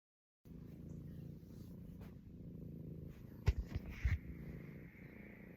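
Domestic cat purring steadily, with a few soft knocks about three and a half to four seconds in.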